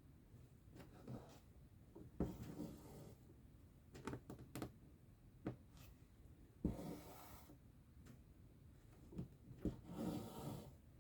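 Needle and thread pulled through cross-stitch fabric: four soft rasping swishes, with small sharp ticks in between.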